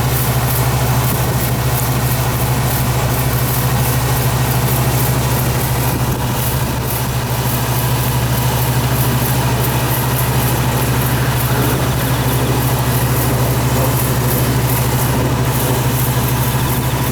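Farm machine engine running steadily at one constant pitch, a loud low drone with no change in speed.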